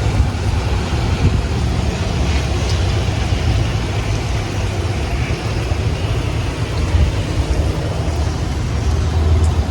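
Strong, gusty storm wind buffeting the microphone: a loud low rumble that swells and eases, with a fainter hiss of wind over it.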